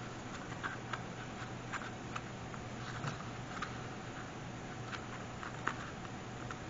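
Hands fiddling with a paper ornament and its tassel: light, irregular clicks and taps, a dozen or so, over a steady low hum.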